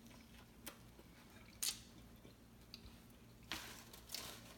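Quiet chewing of a mouthful of homemade sub sandwich, with a few brief crackles, the loudest about one and a half seconds in.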